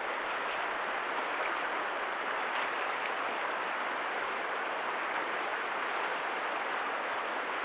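Steady rushing of stream water, an even hiss without any change or break.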